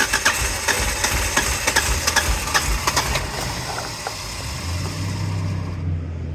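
Volvo 850R engine being cranked over by the starter with irregular knocks but not catching, a sign of its no-start condition. The cranking stops about five seconds in, leaving a steady low hum.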